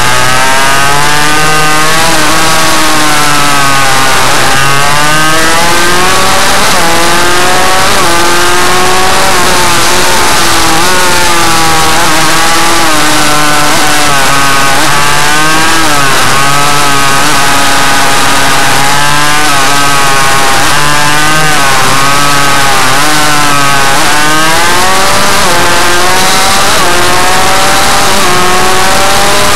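Loud Suzuki RM85 two-stroke single-cylinder motorcycle engine running, its revs rising and falling again and again every few seconds.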